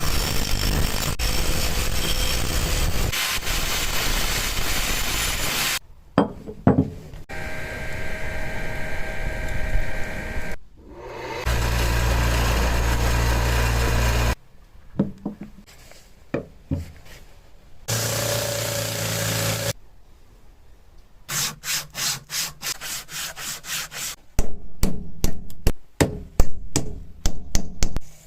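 Workshop tool sounds from reshaping a hatchet and its wooden handle: several stretches of steady power-tool noise, one with a strong low hum, then rhythmic hand-tool strokes rubbing on wood, about three a second, louder near the end.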